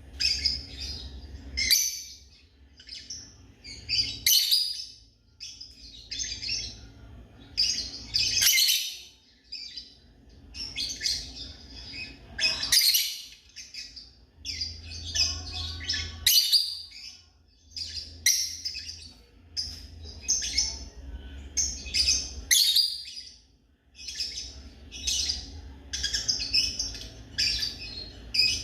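Lovebirds chirping in rapid, shrill bursts, one after another, with a low rumble coming and going underneath.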